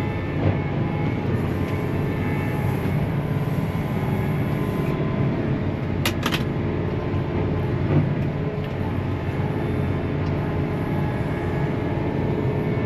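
Big John Deere farm tractor's diesel engine running steadily under load during a recovery pull from deep mud. A brief double click comes about six seconds in.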